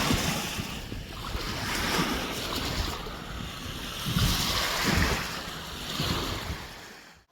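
Wind gusting on the microphone over small lake waves washing in, a rushing noise that swells and ebbs every second or two with low buffeting rumbles, fading out abruptly near the end.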